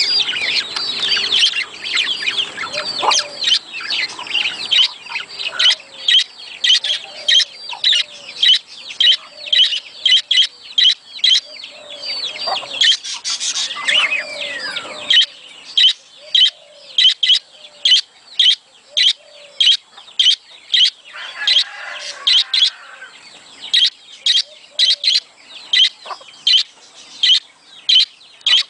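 Budgerigars chirping and chattering: the breeding-time calls that budgie keepers play to encourage their birds to mate. A busy, warbling chatter fills the first half, then gives way to short sharp chirps repeating about twice a second.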